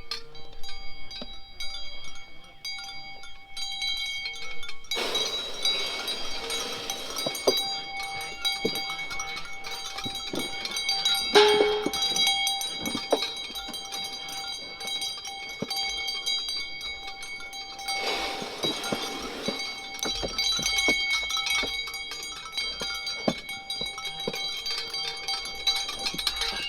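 Bell-like chime tones ringing steadily throughout, mixed with farm animal sounds and scattered knocks. A short, louder call comes about eleven seconds in.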